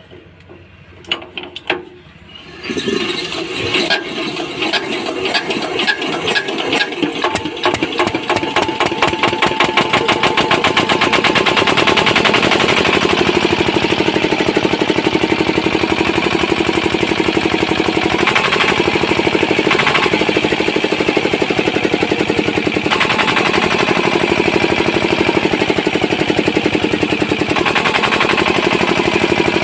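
Kirloskar diesel engine starting: a few clicks, then it fires about two and a half seconds in. Its firing beats quicken over the next several seconds as the governor lets in extra diesel to pick up speed, then it settles into a steady, evenly pulsing run held by the governor.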